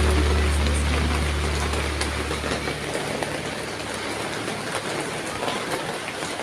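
Steady rain falling, an even hiss with scattered drop ticks. A low background music track fades out over the first three seconds.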